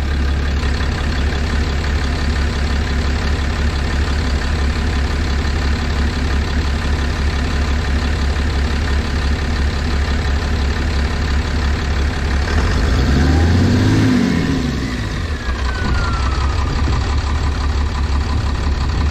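6.7-litre Cummins turbodiesel idling, then revving up briefly about two-thirds of the way through and dropping back to idle, with a whine falling in pitch as it settles. The owner hears knocking in it and suspects worn factory injectors at 859,000 miles.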